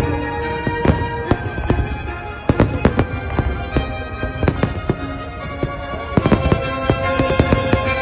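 Fireworks display: shells bursting in many sharp bangs at irregular intervals, several a second in places. Music plays steadily underneath.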